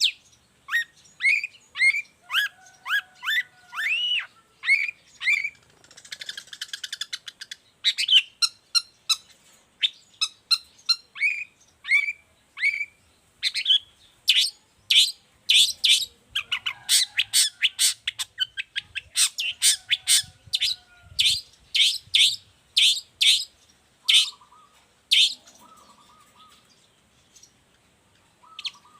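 Long-tailed shrike (cendet) in full, continuous song. It starts with a run of short rising whistled notes, has a harsh buzzy passage about six seconds in, and later breaks into a long stretch of loud, sharp, rapid chattering notes.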